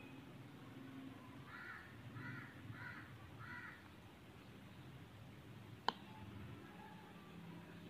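Four short animal calls, likely a bird, repeated about two thirds of a second apart, faint in the background; about six seconds in, a single sharp click.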